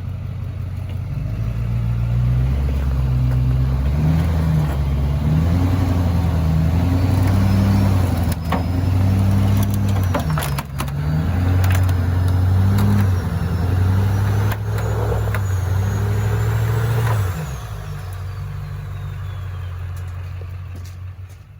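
Duramax LB7 6.6-litre V8 turbodiesel in a lifted pickup revving up and down under heavy load as the truck climbs onto a scrap car, with a few sharp knocks and a faint high whistle rising and falling. Near the end the engine settles back to a lower, steadier run.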